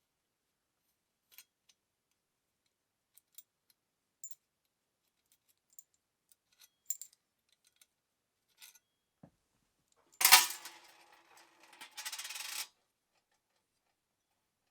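Scattered small metal clicks and clinks, then a loud metallic clatter about ten seconds in that rings briefly, followed by a short, fast rattle.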